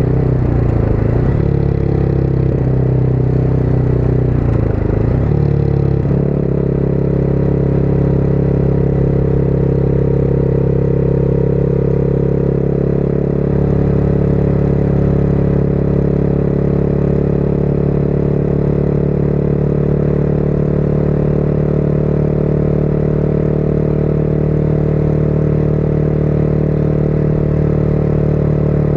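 Motorcycle engine running under way, heard from the rider's position. Its pitch shifts over the first six seconds or so, then it holds a steady note while cruising.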